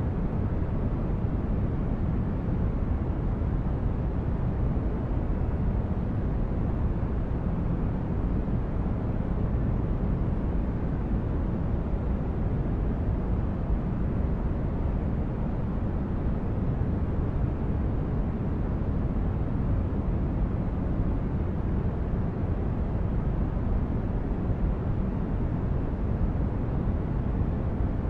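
Steady, deep noise for sleep or relaxation, strongest in the bass and fading toward the treble, with no tones or separate events.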